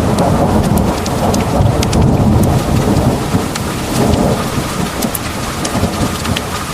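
Heavy thunderstorm: pouring rain with a continuous low rumble of thunder beneath it, and sharp single raindrops ticking on top.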